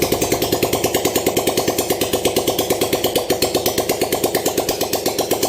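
Single-cylinder engine of an Italika FT150 GTS motorcycle idling steadily with quick, even pulses. It has just been rebuilt after a broken piston skirt, with the fragments cleaned out and fresh oil, and it runs without the earlier knock.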